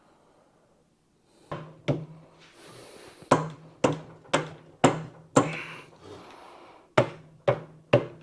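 Hammer blows on a stuck hub and brake drum assembly of a Coleman 4x4 axle, about ten sharp strikes with short ringing, knocking it loose.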